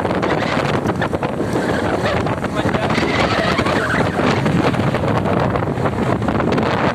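Wind buffeting the microphone of a moving motorcycle, over steady engine and road noise.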